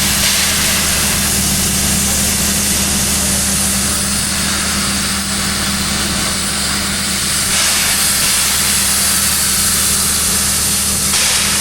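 Standing steam locomotive hissing steadily with escaping steam over a steady low hum. The hiss grows brighter about two-thirds of the way in.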